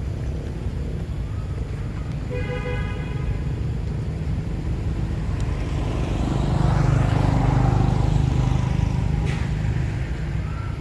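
Road traffic: a steady low rumble with a short horn toot about two seconds in, then a vehicle passing close by, its noise swelling to a peak around seven to eight seconds in and fading again.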